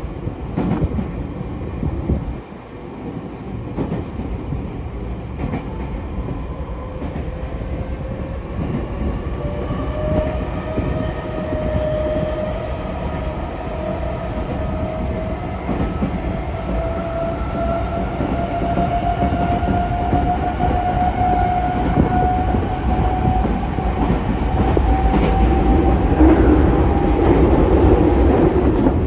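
Tokyo Metro 05 series train's Mitsubishi IGBT-VVVF inverter and traction motors whining, the tone climbing slowly and steadily as the train gathers speed, over the rumble of wheels on rail. The running noise grows louder near the end.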